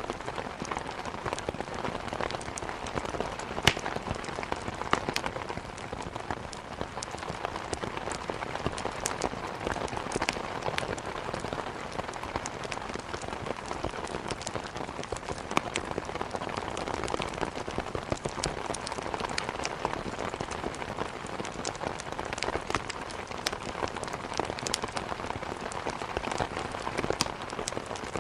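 Steady heavy rain with frequent sharp crackles and snaps from wood burning in a fireplace, one louder crack about four seconds in.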